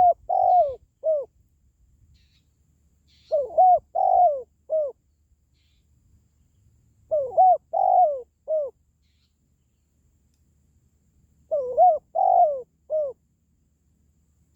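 Spotted dove cooing: a short phrase of about four rounded notes, repeated four times roughly every four seconds.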